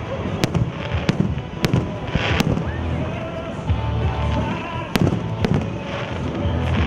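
Aerial fireworks going off in a show, about six sharp bangs: four in the first two and a half seconds, then two close together just past the middle. They sound over the show's music soundtrack playing steadily with a strong bass.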